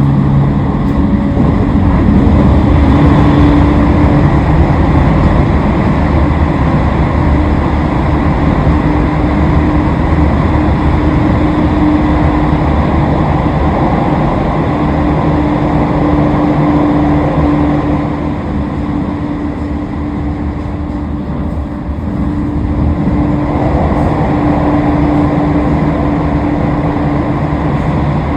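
Toei Shinjuku Line 10-300 series electric train running, heard from inside the car: wheel-on-rail rumble with the steady hum of its Mitsubishi IGBT-VVVF inverter-driven traction motors. It gets somewhat quieter for a few seconds about two-thirds of the way through, then picks up again.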